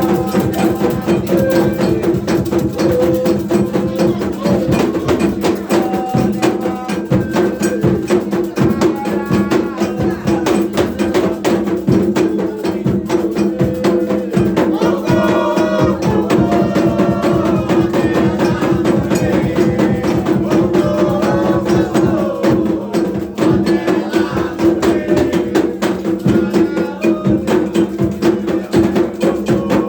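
Candomblé atabaque drums playing a fast, dense rhythm led by the rum, with voices singing over it.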